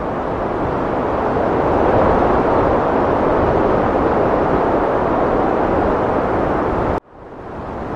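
Heavy wind blowing, a steady rushing noise that swells slightly about two seconds in. Near the end it drops out suddenly and fades back up within about a second.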